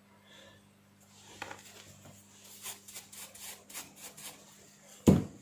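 Short, irregular scratchy rubbing strokes on the small parts of a hair trimmer's trimming head as they are cleaned, ending with a brief bump just before the end.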